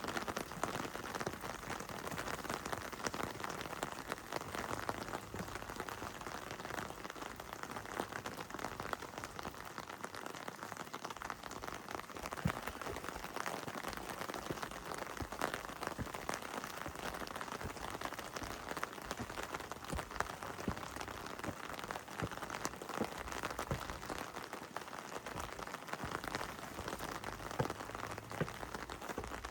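Heavy rain falling steadily: an even rush of rain with many sharp drop ticks close by.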